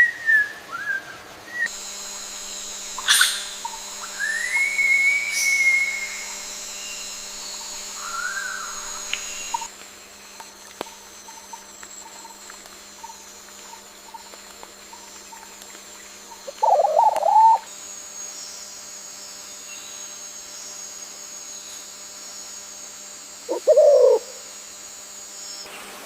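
Wild birds calling: a few short whistled notes, a long slurred whistle, then two harsher, lower calls of about a second each, over a steady high hiss of forest ambience.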